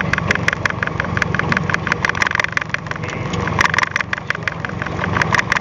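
Fishing boat's engine idling steadily, with a fast, even ticking of several clicks a second over it.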